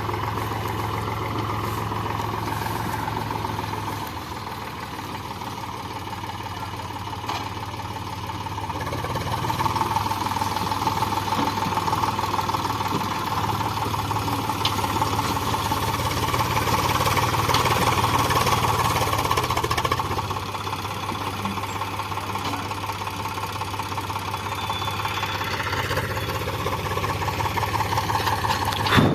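Eicher 485 tractor's diesel engine running under load, with a knocking beat. It swells louder for about ten seconds from a third of the way in, then eases back to a steadier run.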